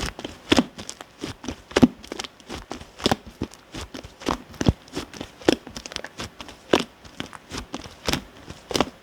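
Clear slime mixed with shaving foam being squished and pressed by hand, giving an irregular string of sticky pops and clicks, a few every second.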